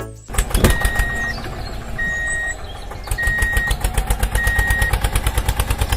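An engine starts and runs with a quick, even chugging that becomes steadier in the second half. A high steady beeper sounds four times, about one beep every second and a bit.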